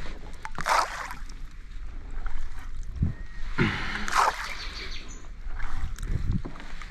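Water splashing and sloshing in irregular surges, a few with low knocks.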